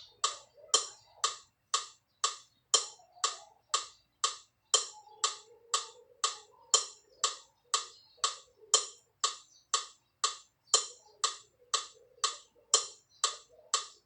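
Metronome ticking steadily, about two ticks a second, keeping the count for the warm-up drill.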